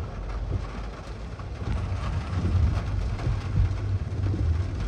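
Steady rain on wet city streets over a low, uneven rumble.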